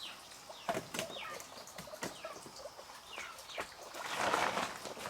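Farmyard chickens and chicks, with short falling peeps and clucks scattered throughout. About four seconds in there is a brief, louder rustling flurry, as of wings flapping.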